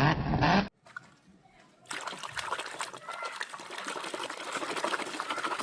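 Loud music cuts off abruptly under a second in; after a short pause, water trickles and splashes steadily, as when toys are washed under running water.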